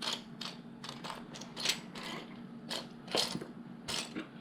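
Loose plastic LEGO pieces clicking and rattling against each other in scattered, uneven clicks as they are sifted by hand in a search for a small part.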